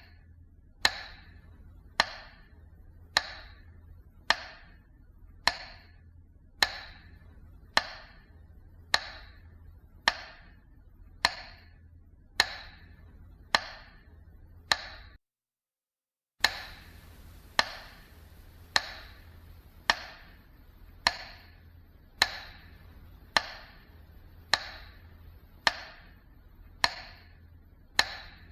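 Slow, steady ticking of a metronome: one sharp tick about every 1.15 seconds, roughly 52 beats a minute. It cuts to silence for about a second halfway through, then goes on at the same pace.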